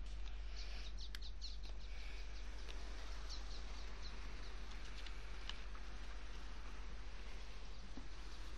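Faint, scattered bird chirps in small clusters over a steady low rumble.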